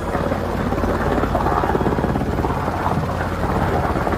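Black Hawk helicopter's rotor chopping steadily in a fast, even beat.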